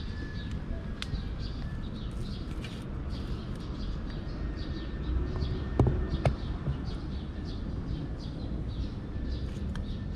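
Small birds chirping again and again over a steady low outdoor rumble. About six seconds in, two sharp knocks as a metal dish is set down on the ground.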